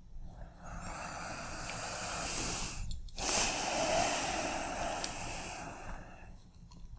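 A person breathing deeply close to the microphone: one long breath, a short pause, then a second long breath.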